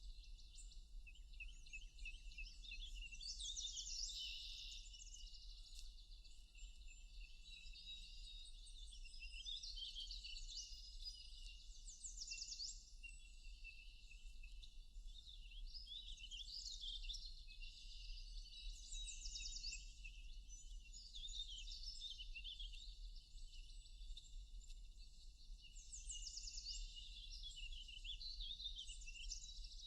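Several songbirds singing at once: overlapping chirps and rapid trills, high-pitched and continuous, over a faint steady background hiss.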